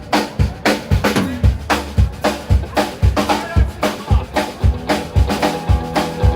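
Live band music: a drum kit keeps a steady beat, the bass drum hitting about twice a second with snare and rimshot strikes between, over sustained notes from other instruments.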